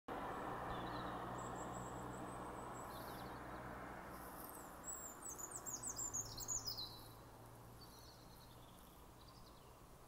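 Two small birds calling back and forth: a thin, high held whistle, then a quick run of descending chirps about five seconds in, answered by fainter high calls. A steady low background hum runs underneath.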